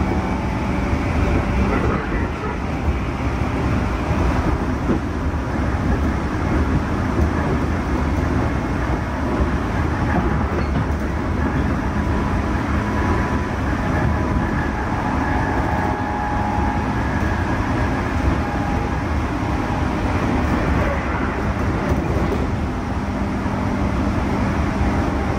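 Cabin running noise of a JR East 211 series electric train: a steady rumble of wheels on rail and running gear, with faint hum from its DC traction motors under field-added excitation control and no rise or fall in pitch.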